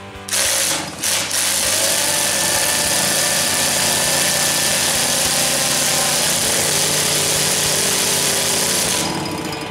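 Cordless drill spinning a Motobecane moped's engine over to turn the magneto and test for spark. It starts and stops briefly twice, then runs steadily for about eight seconds before winding down near the end.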